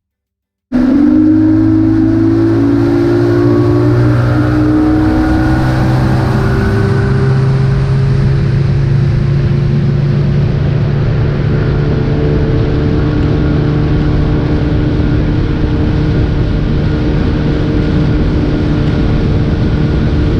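Boat engine running steadily at speed, cutting in abruptly; its pitch rises slightly over the first few seconds, then holds level.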